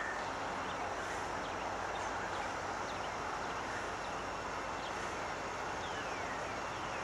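Steady outdoor background noise, an even hiss with no distinct machine rhythm, and a few faint, short, falling high chirps.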